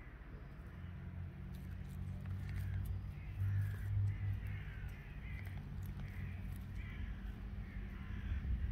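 Harsh bird calls repeating every second or so, over a steady low rumble.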